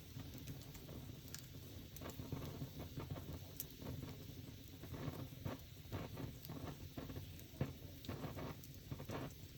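Wood fire crackling, with irregular small pops and one sharper pop a little past halfway through.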